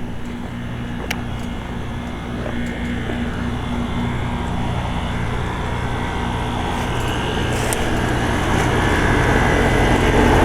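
A York residential heat pump from about 2004–2005 running in heat mode: a steady compressor hum under the outdoor fan's whoosh. It grows gradually louder.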